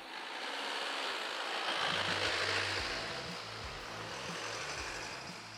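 Car engine labouring up a steep incline, growing louder to a peak about halfway through and fading as it moves on.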